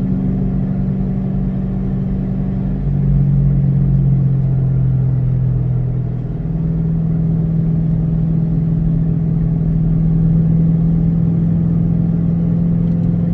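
2006 Ford Mustang GT's 4.6-litre V8 running hard under acceleration. The engine note drops in pitch and gets louder about three seconds in, then changes again after a brief dip in level about six seconds in, as gears are shifted.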